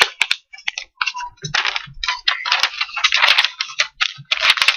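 A sheet of paper being handled, folded and creased by hand: irregular rustling and crinkling with sharp crackles.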